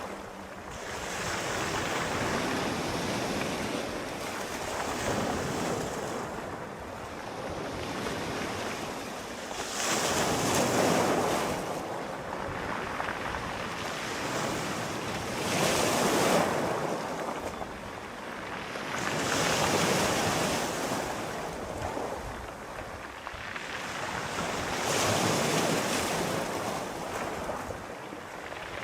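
Sea waves breaking and washing onto the shore, the surf swelling and falling away every few seconds, with wind.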